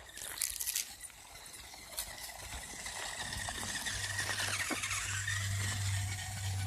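Toy RC car's small electric motor running with a high whine that grows louder, after a few clicks in the first two seconds; a low hum joins about four seconds in.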